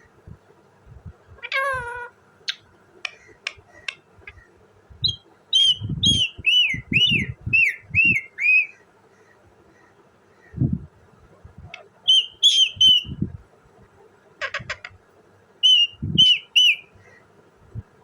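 Indian ringneck parrot calling in runs of short, arched, whistled chirps, with one falling call and a few clicks before them. Low thumps come with several of the calls.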